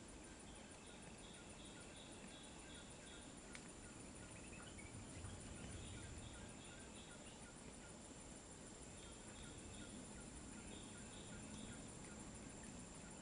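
Faint forest ambience: a steady high, finely pulsing insect drone, with several bouts of a short high note repeated about three times a second.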